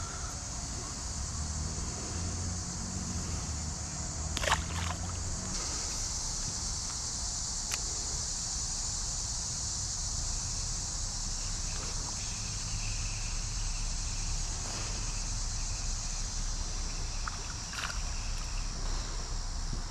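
Creek water running and sloshing around a wader's legs as a steady hiss with a low rumble beneath. A few brief sharp clicks come about four and a half seconds in, near eight seconds and near the end.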